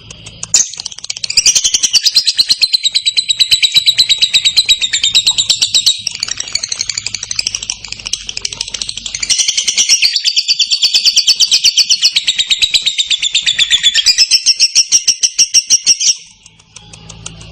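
Lovebird singing 'ngekek': a long, clear, rapid chatter of many notes a second. It starts about half a second in, weakens briefly around the middle, resumes, and stops shortly before the end.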